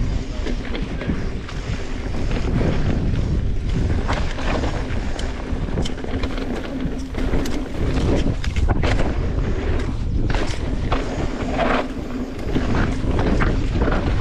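Mountain bike riding down a dirt singletrack: wind rumbling on the microphone over tyre noise on dirt, with frequent short knocks and rattles as the bike hits bumps.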